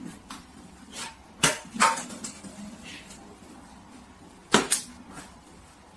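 Scattered sharp knocks and clatters in a small room. The loudest come in two pairs, about a second and a half in and again at about four and a half seconds.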